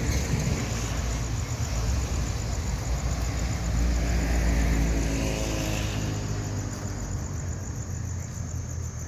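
A motor vehicle passing by: its engine and tyre noise swell to a peak about halfway through, then fade away.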